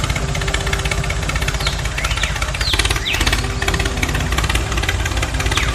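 Small diesel engine running steadily with a fast, even pulse.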